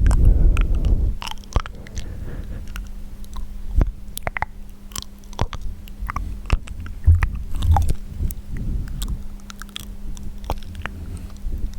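Wet mouth sounds: an irregular string of sharp clicks and smacks, after a low muffled rumble in the first second.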